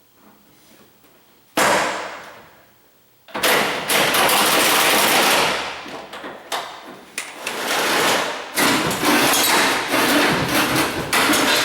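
Welding arc crackling while the engine mounts are tack welded to the race car's frame: one short burst that fades, then two longer runs of several seconds each with a brief break between them.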